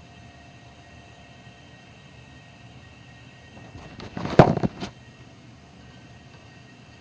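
Datsun 280Z inline-six idling steadily, picked up close to the exhaust, where the owner suspects a leak at a pipe junction. About four seconds in, a loud rough rustling burst lasting under a second.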